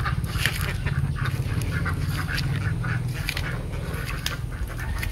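Rapid, irregular series of short bird calls over a steady low rumble.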